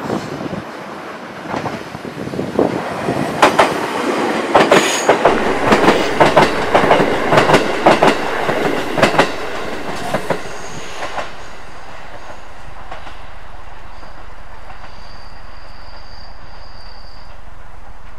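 A JR Central 373 series electric limited express train passing at speed without stopping, its wheels clacking rhythmically over the rail joints. The clacking is loudest from about three to ten seconds in and dies away about eleven seconds in.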